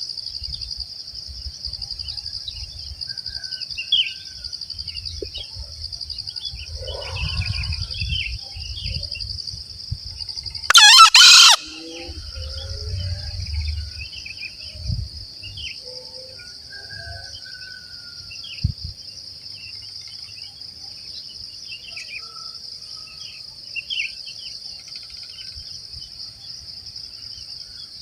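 One loud, short crow of a green junglefowl about eleven seconds in, over a steady high insect drone and scattered faint calls of small birds.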